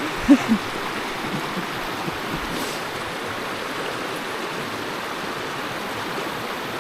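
A river flowing steadily, an even rush of water throughout. Two short vocal sounds come just after the start.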